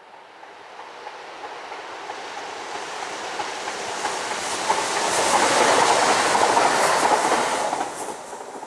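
Stadler Flirt multiple unit passing by on the rails. It grows steadily louder as it approaches, is loudest a little past halfway, with wheel clicks over the rail noise, then fades as it goes away.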